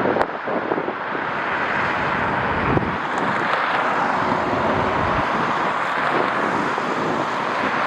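Steady roar of a jet airliner's engines, mixed with wind buffeting the microphone, with a few sharp knocks in the first second.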